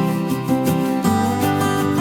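Background music: strummed acoustic guitar playing a steady, upbeat chord pattern.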